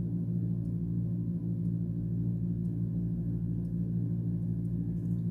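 Steady low hum, several even tones held without change, with faint ticks about once a second.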